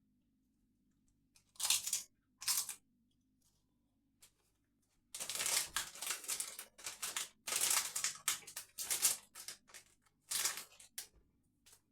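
Crunching of crisps being eaten: a series of short, irregular crunches, densest in the second half.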